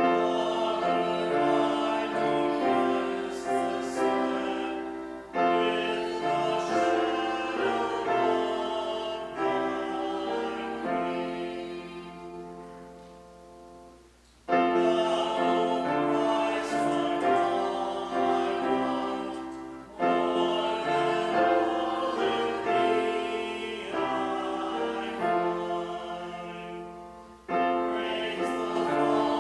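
Piano playing in phrases of sustained chords, each struck sharply and then dying away, with voices singing along; the longest phrase fades out about twelve seconds in before the next begins.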